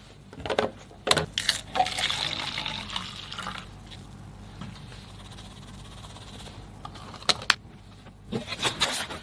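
Dessert-making kitchen sounds: sharp clinks and taps of utensils on dishes, and a rushing, pour-like noise for about a second and a half starting about two seconds in.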